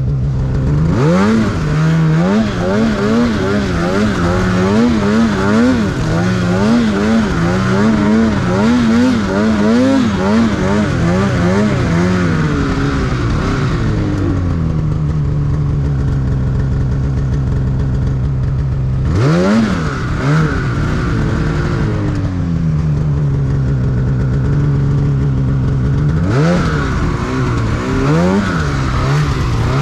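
Snowmobile engine revving hard, its pitch rising and falling quickly for about twelve seconds as the throttle works through deep powder, then running steadily, with two more quick rev bursts about twenty and twenty-six seconds in.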